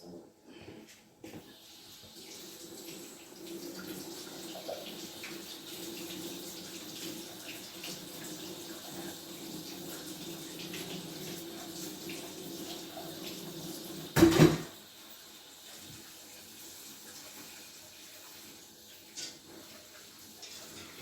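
Kitchen tap water running steadily into a bowl of frozen mixed vegetables to thaw and rinse them. About fourteen seconds in there is a single loud knock, after which the running water stops.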